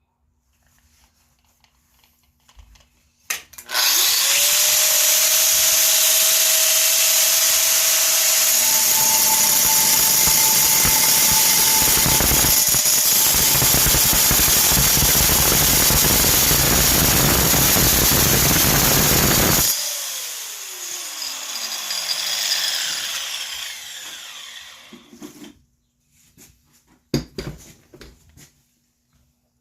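Angle grinder with a cutoff disc switched on with a click, spinning up to a steady whine, then cutting under downward pressure with a loud grinding noise for about ten seconds. It is switched off and spins down with a falling whine over several seconds. A few knocks follow near the end.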